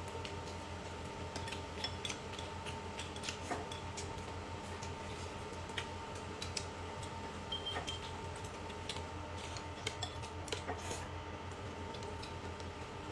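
Light, scattered clicks and clinks of tableware, chopsticks or spoons against dishes during a meal, over a steady low hum.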